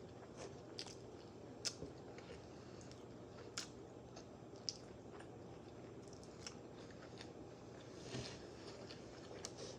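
Close-miked chewing of a sausage-and-pepper sandwich on a bun: soft wet mouth clicks and smacks at irregular intervals, a few of them sharper and louder.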